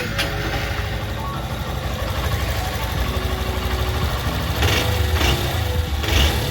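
Honda Bros 160's single-cylinder air-cooled engine idling steadily with a fast, even low pulse. It has been freshly rebuilt with a new cylinder kit and connecting rod, and is running without its earlier knocking noise. Background music plays over it.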